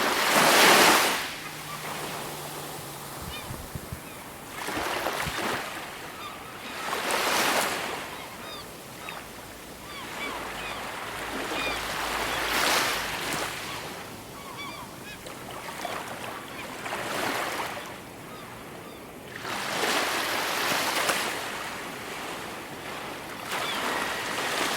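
Ocean waves breaking and washing in, one surge every few seconds, with faint bird calls in the background.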